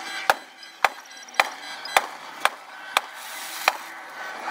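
Fireworks display with aerial shells bursting overhead: seven sharp bangs in quick succession, roughly half a second apart.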